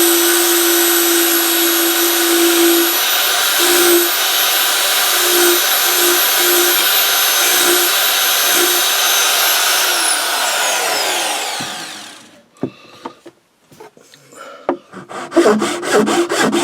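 Electric belt file running and sanding wood, its motor whining steadily with small dips as the belt bites. About ten seconds in it is switched off and winds down with a falling whine, and near the end come short rubbing and scraping strokes.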